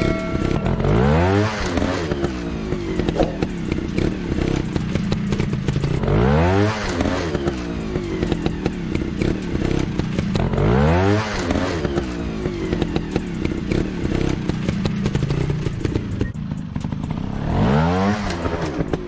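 Trail motorcycle engine revving up and falling back four times, over a steady running sound with constant clattering and crackling.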